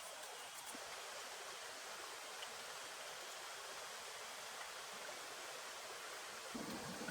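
Steady hiss of rain falling. A deeper sound joins near the end.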